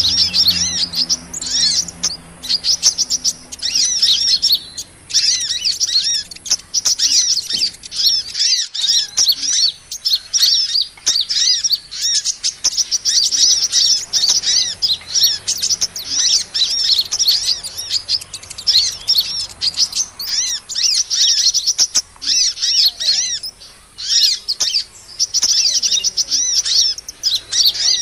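Dense chorus of sunbird calls ("kolibri"), a bird-lure recording. Many short, high-pitched, arched chirps and twitters overlap almost without pause, broken by a short silence about eight seconds in.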